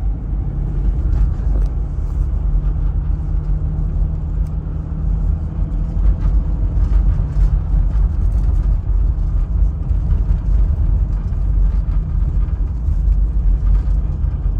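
Toyota Land Cruiser HDJ101's 4.2-litre straight-six turbo diesel running under way, with a steady low rumble of engine and road noise and an even engine drone through much of the first half.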